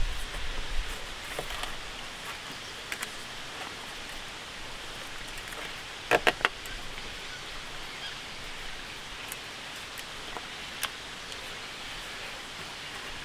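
Steady outdoor ambient hiss of a rainy camp, with scattered light ticks and three sharp taps in quick succession about six seconds in.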